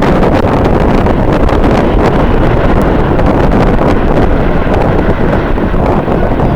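Strong wind buffeting the camera's microphone: a loud, steady rumbling roar with no letup.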